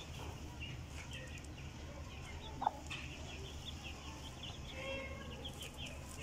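Aseel chickens clucking. There is one short, louder call about two and a half seconds in, then a quick run of short, high, falling peeps through the second half, over a steady low hum.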